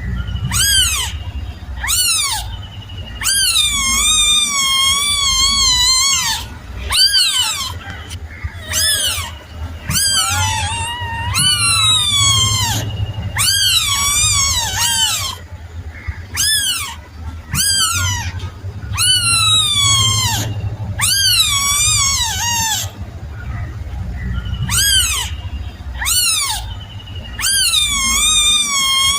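Kitten meowing over and over, high-pitched calls that rise and fall in pitch, some short and some drawn out, about one every second or so.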